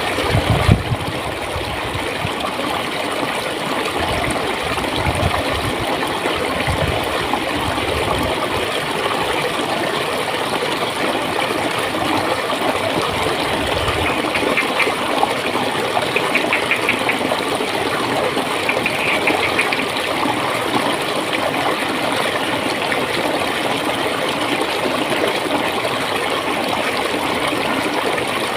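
Clear water flowing and gurgling steadily, with a few deep low gurgles in the first several seconds and three short, high trills around the middle.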